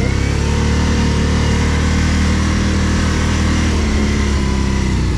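ATV engine running steadily, its pitch shifting slightly about four seconds in.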